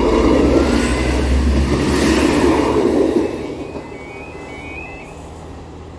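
Transport for Wales diesel multiple-unit train passing over a level crossing, loud for about three seconds and then fading away as it clears. About four and a half seconds in, the crossing's warning alarm is heard, a rising stepped two-tone warble.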